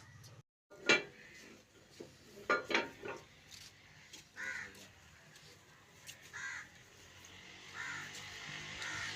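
Crows cawing: about four short calls a second or two apart in the second half. They follow a few sharp clattering knocks in the first three seconds.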